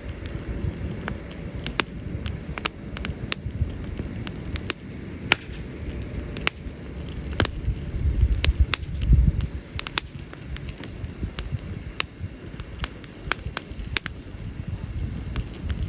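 Burning firewood crackling, with many irregular sharp pops over a low rumble that swells for a second or so around the middle.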